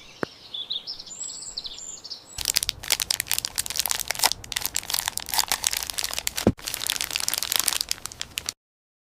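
Faint high chirps at first, then about six seconds of dense crackling and crunching that cuts off abruptly near the end.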